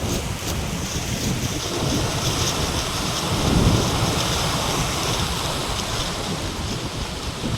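Coastal storm: heavy surf and rain with gusting wind on the microphone, heard as a continuous rushing noise with a low rumble. It swells briefly about three and a half seconds in.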